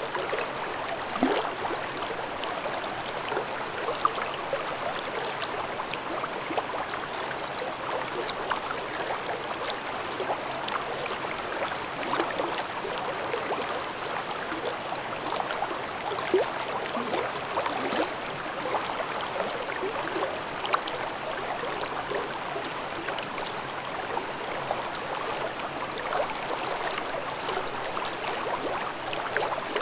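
Forest valley stream babbling steadily, with brief little splashes standing out now and then.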